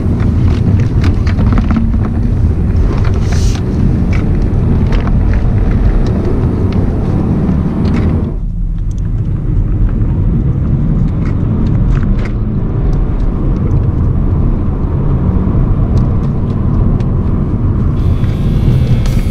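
In-cabin sound of a BMW 118d's four-cylinder turbodiesel and road noise while driving, a steady low rumble with scattered short clicks and knocks. It dips briefly about eight seconds in, and guitar music comes in near the end.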